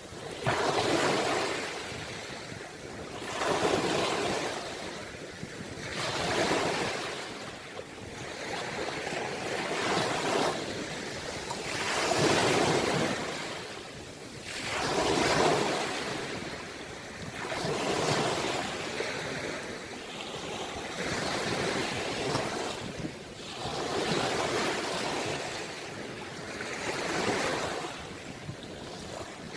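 Ocean waves washing in, the surf swelling and easing about every three seconds.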